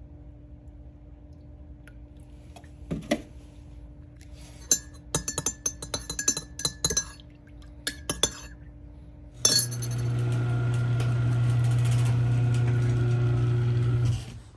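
Light clinking and knocking of glass or hard objects, then a loud steady hum with a hiss that starts suddenly and cuts off a little before the end.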